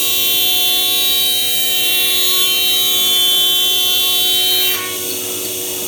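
Spindle of a MAKA 5-axis CNC router running at high speed, a steady high whine made of many fixed tones. The whine drops away nearly five seconds in, leaving a lower steady machine hum.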